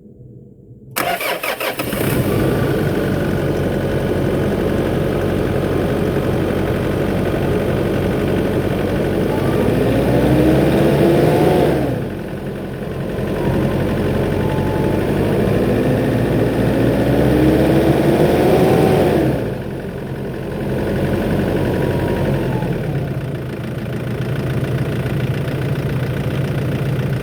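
Nissan Navara D40's YD25DDTi four-cylinder turbo-diesel starting about a second in, then idling steadily, revved twice with the pitch rising and dropping back to idle each time.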